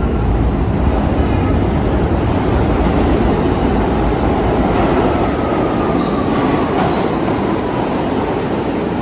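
New York City Subway 1 train running along the track: a steady, loud rumble of wheels on rail, with a faint whine that falls slightly in pitch about halfway through.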